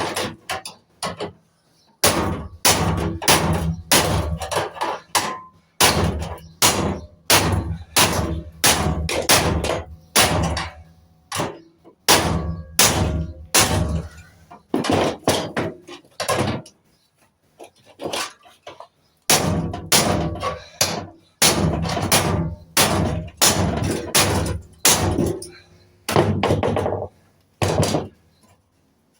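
Runs of hammer blows on metal, about two a second, each with a short ring, with brief pauses between the runs.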